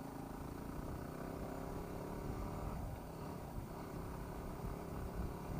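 Yamaha WR250R's single-cylinder four-stroke engine running at a steady, low speed, heard faintly over a low rumble.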